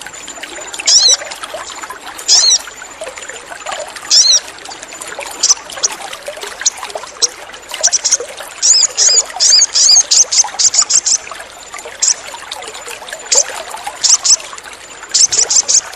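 Crimson sunbird (sogon) calling: sharp, very high chips, some single and some in rapid runs, loudest in a burst about halfway through. Running water trickles steadily underneath.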